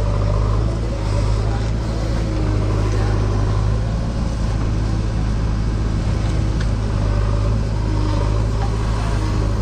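Diesel engine of a JCB 3DX backhoe loader running steadily, a low, even drone.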